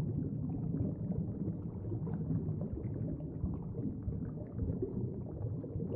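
Low, steady underwater rumble with bubbling and gurgling.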